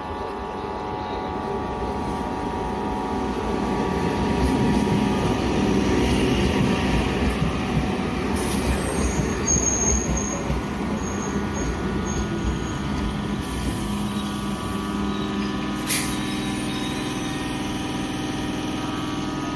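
ICF-built electric multiple-unit (EMU) local train pulling into a station: a steady whine from the electric equipment over the wheels rumbling on the rails, growing louder as the coaches pass. Short high brake squeals come about ten seconds in, followed by a hiss of air as it slows, and a single sharp clack a little later.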